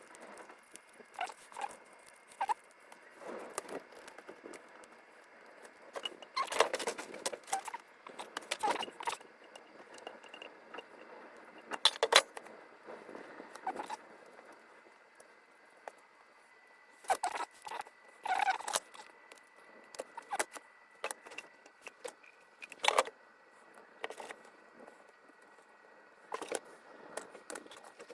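Handling noises at a workbench: irregular clicks, taps and short rustles and scrapes of hands working on a plastic battery pack and its wiring. A faint steady high whine runs underneath.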